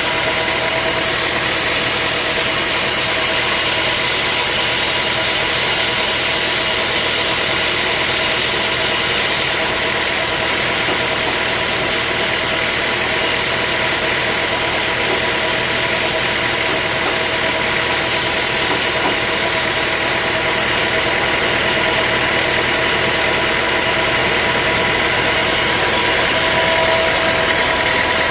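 Sawmill machinery running steadily: a continuous engine drone with a steady whine over it, unchanging throughout.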